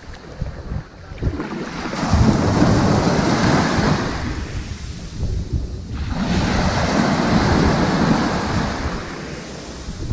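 Ocean waves breaking and washing up onto a sandy beach, the surf swelling and ebbing twice.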